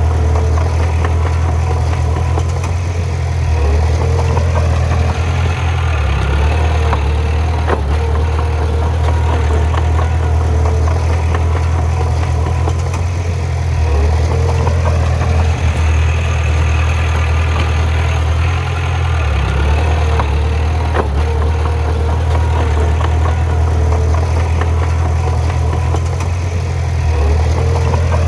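Bulldozer's diesel engine running steadily under load, its level swelling and easing a little, with a few single knocks.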